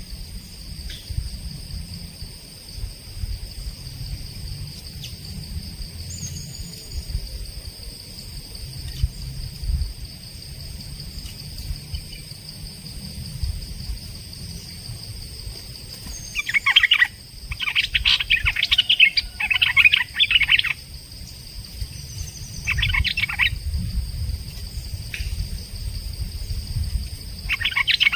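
A songbird giving bursts of rapid, chattering calls: a long run a little past halfway, then two short bursts, the last near the end, over a steady high-pitched tone and low rumble.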